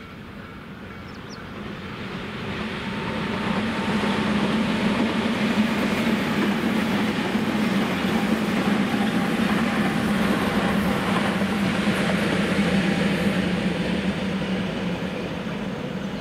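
Electric train on the Tobu Skytree Line passing by. It grows louder over the first few seconds, runs past steadily with a low hum and rail noise, and fades a little near the end.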